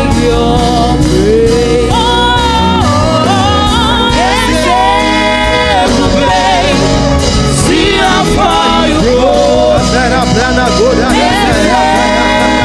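Live gospel worship band of keyboard, drums, guitar and saxophone playing together, with singing carried over it.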